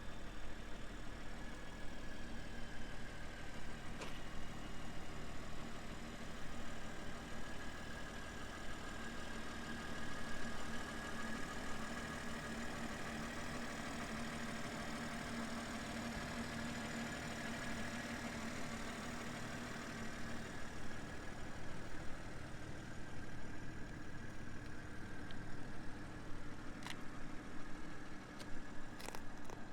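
A vehicle engine hums steadily at idle. A steady tone rises and fades through the middle, and there are a few light clicks, two of them near the end.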